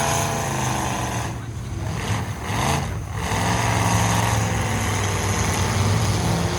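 Engines of full-size derby trucks running hard and revving, easing off briefly about one and a half and three seconds in before picking back up.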